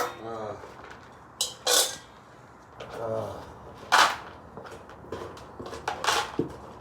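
Several short clattering or scraping noises, about five in all, with a brief murmur of voice between them.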